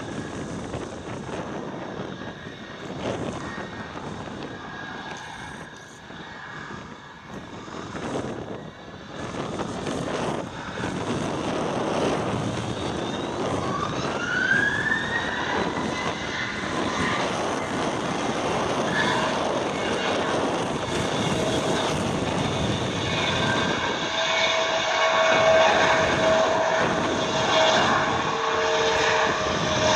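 Boeing 717-200's two BMW Rolls-Royce BR715 turbofan engines spooling up to takeoff thrust. A whine rises in pitch about halfway through and then holds steady, and the jet roar grows louder toward the end.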